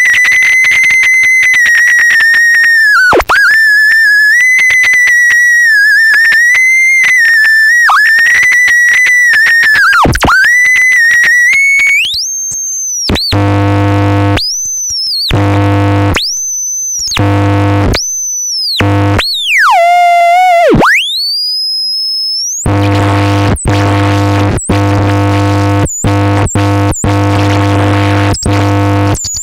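Experimental electronic music: a high theremin tone wavering in pitch around one note, then sliding up and down in broken phrases, with one long swoop down and back up. From about halfway, a low buzzing drone with many overtones fills the gaps between phrases. Near the end the drone takes over, chopped by short, sudden cuts.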